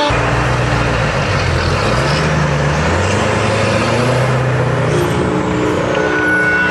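Scania V8 diesel truck engine running with a deep note; its pitch rises about two seconds in and then holds steady under load.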